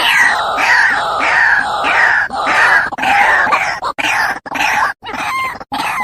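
White-breasted waterhen (ruak-ruak) calling: a loud, fast run of repeated harsh notes, about two a second, each falling in pitch. Near the end the calls break up into short clipped pieces with gaps of silence between them.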